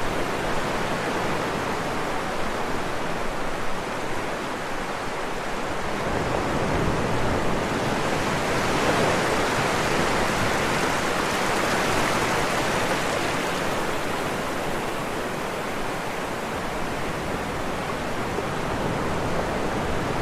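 Floodwater rushing in a steady roar of noise, swelling a little louder about midway before settling back.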